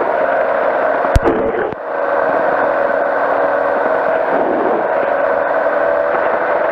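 Powered parachute engine and propeller droning steadily in flight, heard through the pilot's headset intercom, with a sharp click about a second in.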